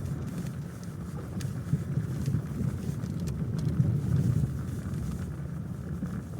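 Car driving, with a steady low road rumble and a few short knocks.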